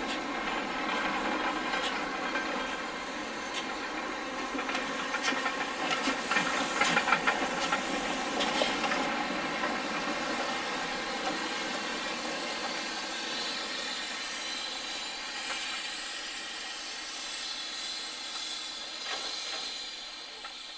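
Railway locomotive running close by with a steady hiss. Clicks and knocks come about five to nine seconds in, the loudest part, and the sound fades near the end.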